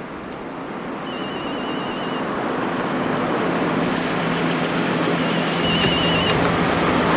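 Telephone ringing twice with a warbling electronic trill, each ring about a second long and about four seconds apart, over a steady engine hum and noise that grows louder.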